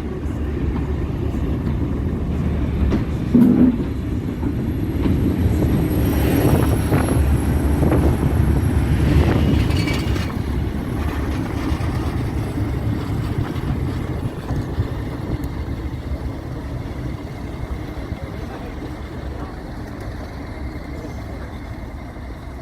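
Diesel-hauled train passing: a heavy low engine rumble builds to its loudest about halfway through, then slowly fades away. A brief tone sounds about three and a half seconds in.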